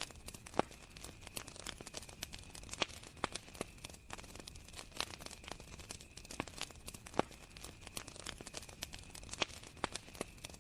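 Campfire crackling, with irregular sharp snaps and pops from the burning wood. Crickets chirp steadily behind it.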